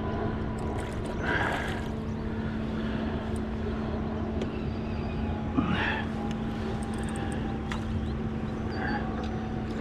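Steady rushing of river current with a constant low hum underneath, and a faint click about halfway through.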